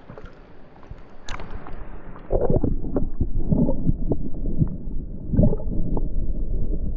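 Muffled gurgling and sloshing of creek water with scattered knocks, much louder from about two seconds in.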